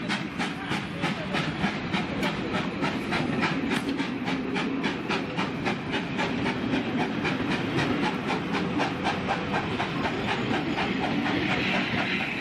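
Passenger coaches of a steam-hauled train rolling past at slow speed, their wheels clicking evenly over the rail joints at about four clicks a second under a low rumble. A hiss swells up near the end.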